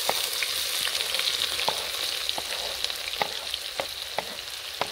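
Chopped onions sizzling in hot oil with ajwain and cumin in a kadhai, stirred with a spoon that clicks against the pan every half-second to second. The sizzling is steady and easing slightly near the end.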